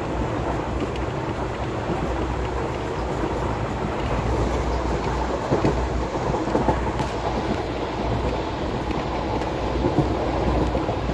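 Passenger train running, heard from inside the coach: a steady rumble and rattle with a few sharp knocks.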